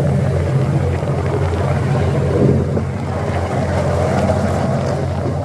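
Large passenger ferry's engines running at cruising speed, a steady low rumble, heard from the open stern deck along with rushing air.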